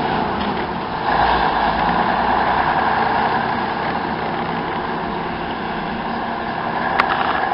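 A diesel bus engine running, growing louder about a second in, with a sharp click near the end.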